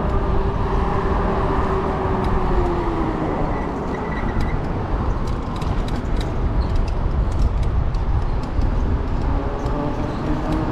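E-bike on the move: wind and road rush with a steady motor whine that glides down and fades about three to four seconds in, then comes back near the end. A run of light ticking sounds in the middle.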